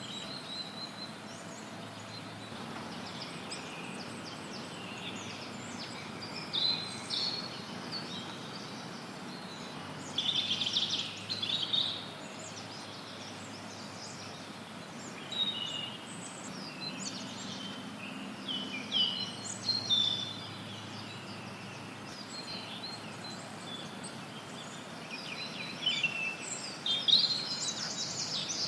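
Forest songbirds chirping and trilling in scattered bursts, with a busier flurry near the end, over a steady hiss of added white noise.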